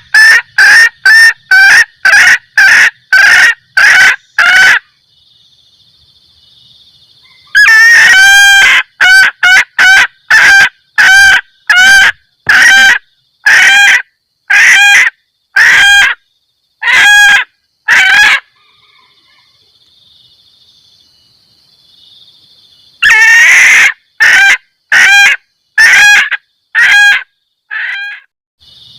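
Female junglefowl's 'kek-kek' mating cackle, a lure call to draw in males: three loud bouts of short repeated clucks, each opening with a longer note and spacing out toward its end. Between the bouts, a faint high steady tone.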